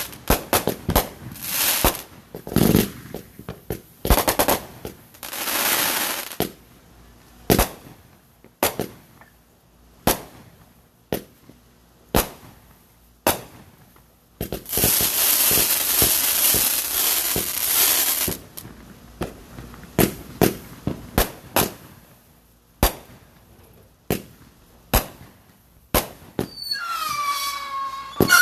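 Backyard fireworks going off: a string of sharp bangs at uneven spacing, two longer stretches of hissing crackle, and a falling whistle near the end.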